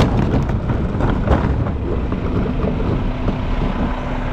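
Garbage truck engine running with a steady rumble, with a couple of sharp knocks near the start and a steady hum coming in about halfway through.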